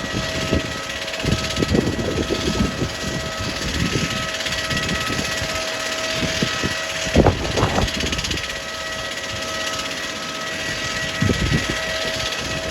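Steady jet whine and rushing hiss around a parked Airbus A321-211 airliner, with irregular low rumbles coming and going, strongest about seven seconds in.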